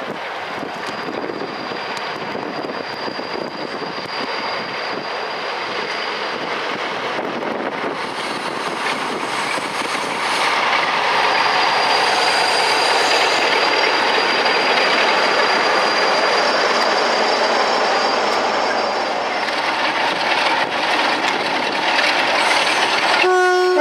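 Class 47 diesel-hauled passenger train running slowly into a station and drawing to a stop, a broad rolling rumble that grows louder as the locomotive draws alongside at about ten seconds. A thin high squeal from the wheels rings out twice for several seconds as it slows. Near the end comes a brief pitched tone that falls in pitch.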